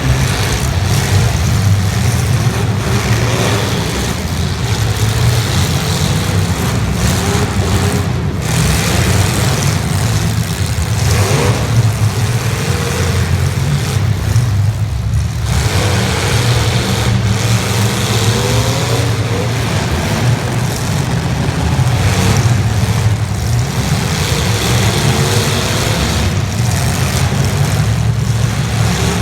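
Demolition derby cars' engines running loudly and revving up and down over a continuous low rumble.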